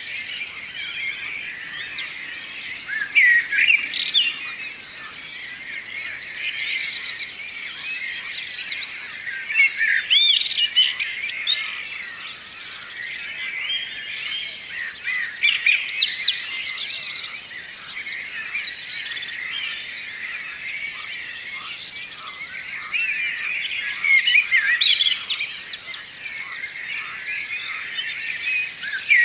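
Morning chorus of several songbirds singing at once: many overlapping high chirps and trills, with louder phrases rising out of it every few seconds.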